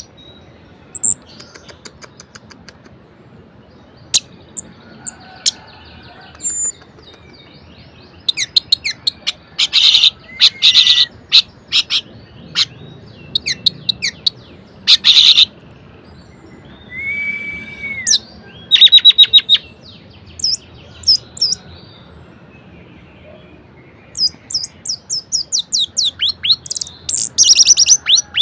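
Orange-headed thrush (anis merah) singing a varied song in separate bursts: rapid high trills and chattering note series broken by short pauses. A clear whistled note comes just past the middle, and the phrases grow busier near the end.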